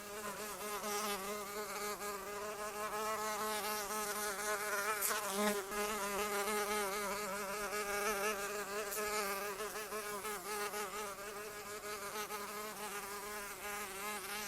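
A fly buzzing in flight: one continuous hum whose pitch wavers up and down as it moves.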